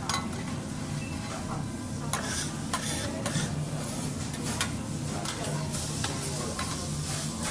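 Food sizzling on a teppanyaki steel hot plate, with metal spatulas scraping and clicking against the griddle several times.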